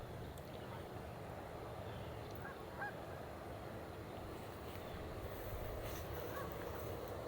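Geese honking a few times, short faint calls in a couple of clusters about two and a half seconds in and again near the end, over a steady outdoor background rumble.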